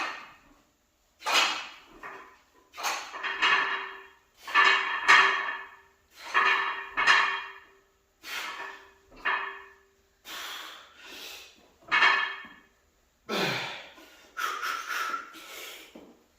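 A man breathing hard and grunting, with a sharp, forceful exhale roughly once a second, as he strains through heavy reps of a close-grip bench press.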